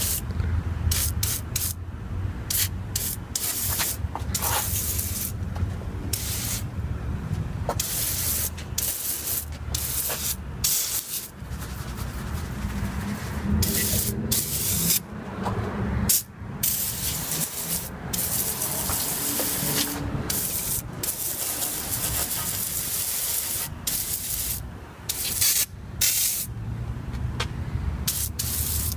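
Engine degreaser being sprayed over a car's engine bay in repeated hissing bursts, some short and quick, some held for a second or more, over a low steady hum.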